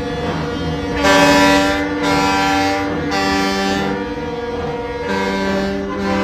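Truck air horns sounding a string of long held blasts in chords, the pitch changing about every second like a played tune.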